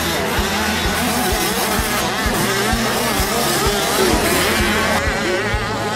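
Several 85 cc two-stroke motocross bikes racing, their engines revving up and down over one another.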